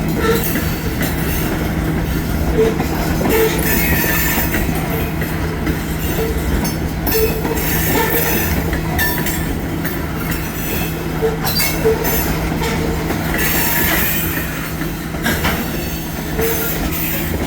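Freight train rolling past, its wheels clicking over the rail joints with short, repeated wheel squeals against the rail.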